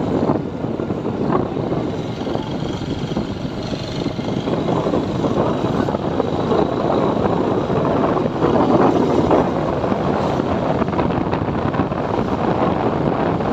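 Wind rushing over the microphone of a moving motorcycle, with the bike's engine running underneath as a steady noise that swells slightly in places.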